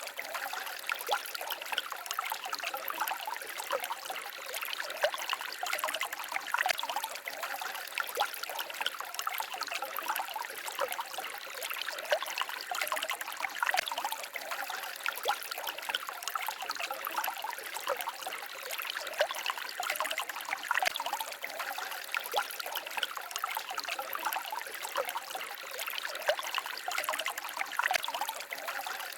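A small forest stream babbling and trickling over stones, a steady splashy rush dotted with many small quick splashes.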